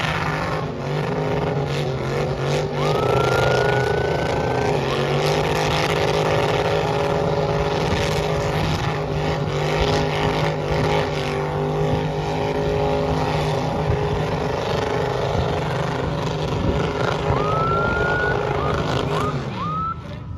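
Car engine held at high, steady revs while the car spins donuts in heavy tyre smoke, with the tyres spinning and a short rising whistle twice. The revs drop near the end.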